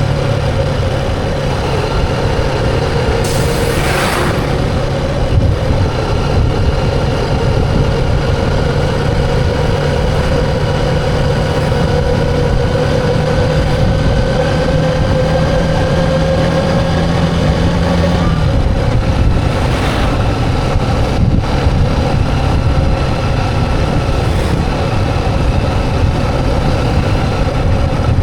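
Motorcycle engine running on the road with steady road noise; its pitch climbs slowly for several seconds and falls back about two-thirds of the way through, with a couple of brief rushing bursts.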